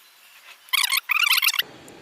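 Two short bursts of rapid, high-pitched chirping from a small animal, the second burst a little longer.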